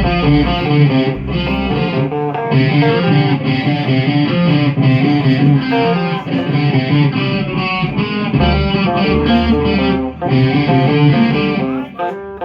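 Electric guitar played through distortion, a continuous run of picked notes, with a brief break near the end.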